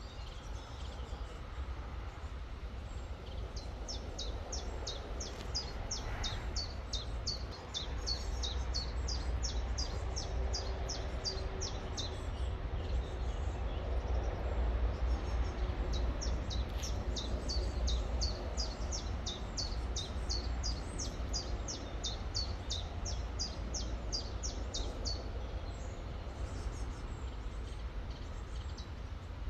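A small songbird repeating a short, high, downward chirp about two or three times a second, in two long runs with a pause between them, over the steady rush of a river and a low rumble.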